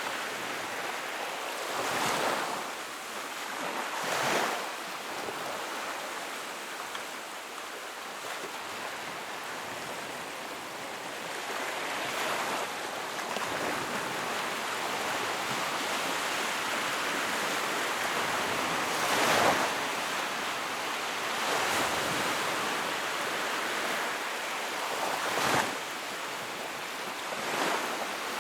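Wood fire burning in a fireplace: a steady hiss with louder crackles and pops every few seconds.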